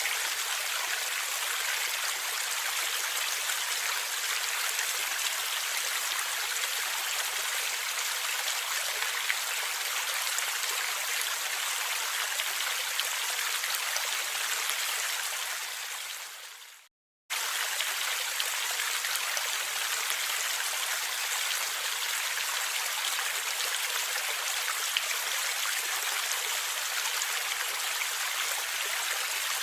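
Steady flowing, gurgling water of a stream. About halfway through it fades out to a moment of silence, then cuts back in abruptly at full level.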